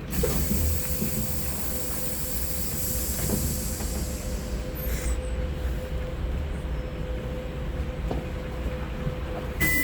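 Cabin noise of a Sinara-6254 trolleybus standing at a stop: a steady low hum with a thin steady whine, and a hiss that fades out about halfway through. Right at the end a short rush of noise comes and a high electronic beep starts.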